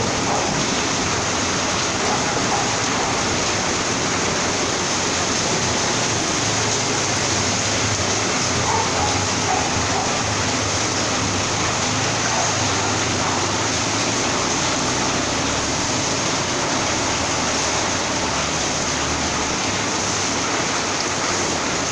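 Heavy rain and running water, a steady, even rushing hiss with no breaks.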